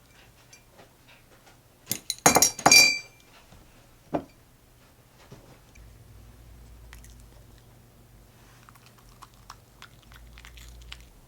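Dishes clinking together: a quick cluster of clinks with a short ringing tone about two seconds in, one more knock a second later, then faint small clicks.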